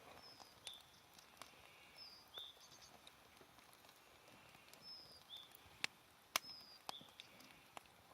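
Faint campfire crackling: scattered sharp pops, two louder ones about six seconds in. A bird repeats a short, high two-note call several times.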